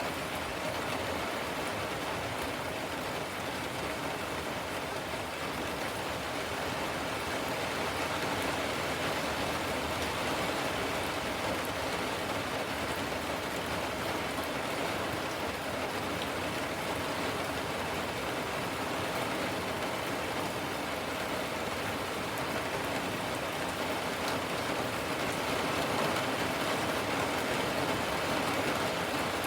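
Steady rain falling, an even continuous hiss of drops on surfaces.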